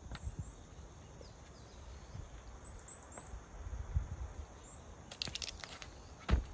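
A small bird's short, high, upward chirps, three in quick succession near the middle, over scattered low knocks; a rapid cluster of sharp clicks comes about five seconds in and a single thump near the end.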